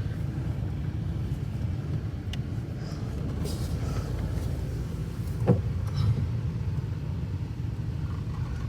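Car driving along a road, a steady low rumble of engine and tyres, with one short knock about five and a half seconds in.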